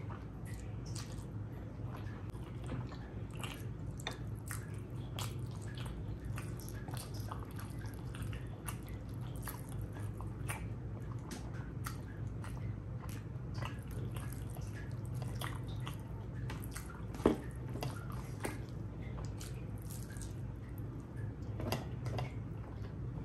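Chewing and eating rice and curry: a steady stream of wet, squishy mouth clicks and smacks, with one sharper click a little past the middle, over a steady low hum.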